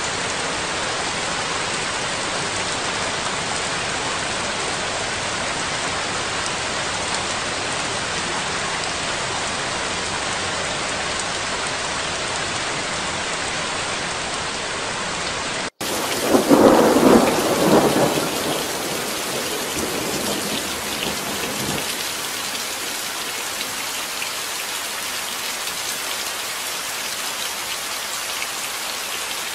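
Steady heavy rain. About 16 s in, it cuts out for an instant and a new rain track starts with a rumble of thunder, loudest over the first two seconds and dying away over the next few. Then steady rain with pattering drops.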